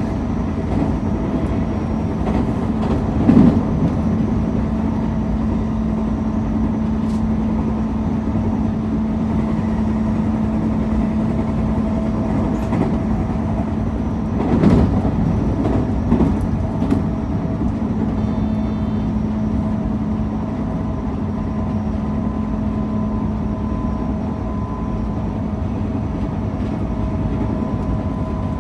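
JR 221 series electric train running along the line, heard from the driver's cab: steady running noise from the wheels and motors with a steady hum. A few louder knocks come as the wheels cross points and rail joints, one about three seconds in and a cluster around fifteen to seventeen seconds in.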